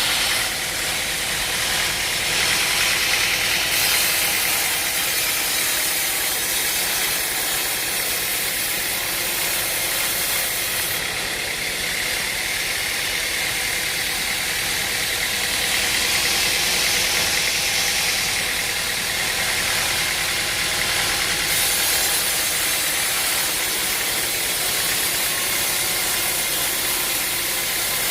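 A machine engine running steadily under a loud, high hiss, its upper tones shifting a little every few seconds.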